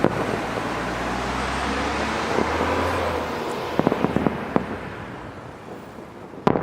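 Fireworks show: a steady rumble of distant bursts, a quick run of sharp cracks about four seconds in, and two more bangs near the end.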